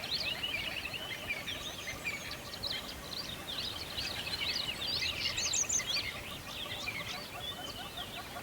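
A dense chorus of many small birds chirping and calling at once, with quick overlapping chirps and sweeps that never pause.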